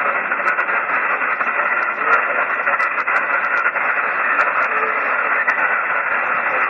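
Steady hiss from a shortwave single-sideband receiver, cut off sharply above about 3 kHz, with scattered sharp static crackles. This is the band noise heard while listening for a weak distant station.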